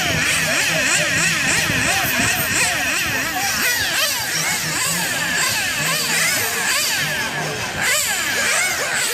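A pack of RC race cars running on the track: many small motors overlap, their pitch gliding up and down as the cars speed up and slow for the corners. A steady beat plays underneath.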